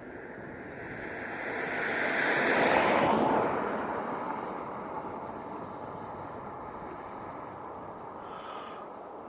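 Aircraft passing by: a rushing engine noise swells to its loudest about three seconds in, then its higher pitch drops off sharply and the sound fades away slowly.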